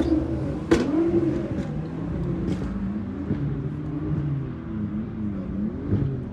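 Car engine revving up and down several times. A sharp click comes about a second in.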